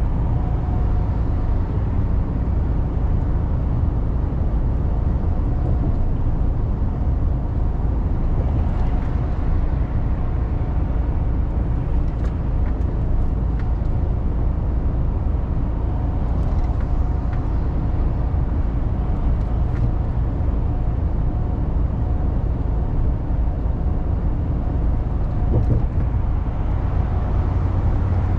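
Mercedes-Benz Actros truck on the move: a steady low engine and road rumble at an even level.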